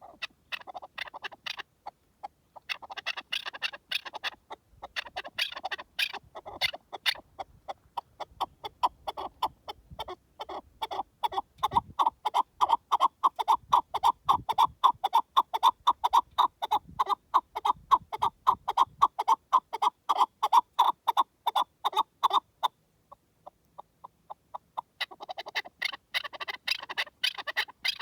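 Chukar partridge calling with a fast series of clucking notes, several a second. It gives short bouts at first, then one long run that builds louder and breaks off about two-thirds through, and it starts again near the end.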